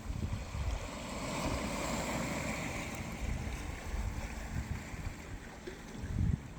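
Atlantic Ocean waves washing on the shore, swelling about a second in and easing off. Wind buffets the microphone in low rumbling gusts, loudest in a brief low thump near the end.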